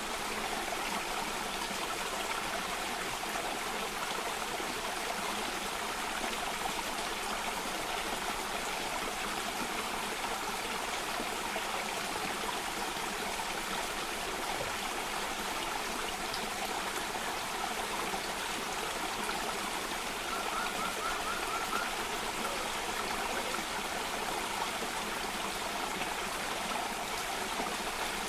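Stream water cascading and running steadily, an even rushing sound. About three quarters of the way through, a bird gives a brief faint trill of quick rising chirps.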